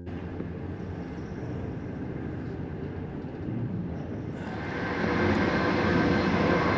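Passenger train running, a steady rumble of wheels on track that grows louder about four and a half seconds in.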